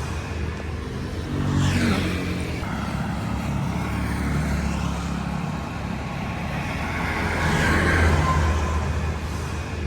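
Road traffic: motor vehicle engines running steadily, with vehicles passing about 2 seconds in and again near the end.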